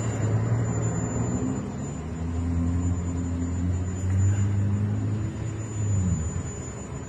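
A motor vehicle's engine running close by: a low, steady hum that drops in pitch and fades about six seconds in.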